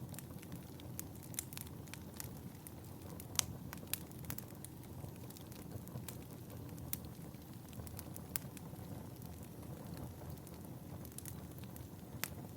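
Wood fire in a fireplace crackling, with sharp pops scattered irregularly through it, the loudest a little over three seconds in, over a low steady rumble of the flames.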